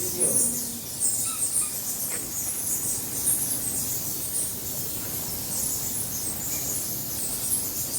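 A colony of cave bats squeaking: a continuous chatter of short, high-pitched chirps, many overlapping.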